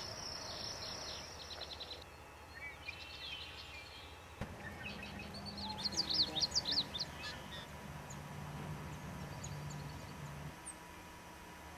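Songbirds singing: a rapid high trill for the first two seconds, then scattered chirps, and a loud run of quick sliding notes about six to seven seconds in, followed by sparse high chips.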